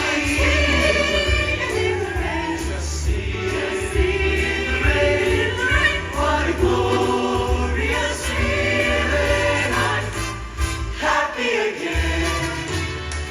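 Choir singing a show tune with instrumental accompaniment and a steady bass line.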